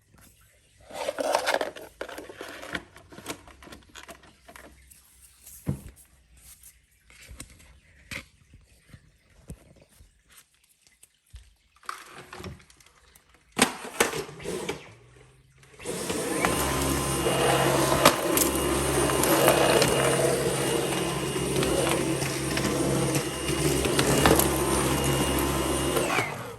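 Scattered clicks and knocks, then about sixteen seconds in a vacuum cleaner motor starts with a steady rush of air and a low hum, runs for about ten seconds and cuts off just before the end.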